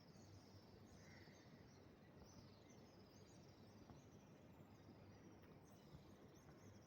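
Faint birdsong: short, high chirps repeating over and over, over a steady low background noise.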